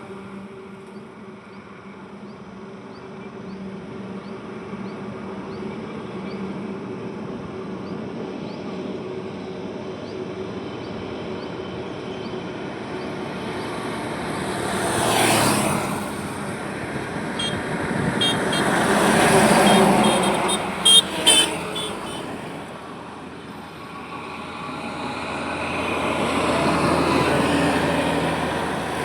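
Highway traffic passing: a steady road rumble with vehicles swelling up and fading as they go by, three close passes in all, the loudest about two-thirds through. Two short horn toots sound right after that loudest pass.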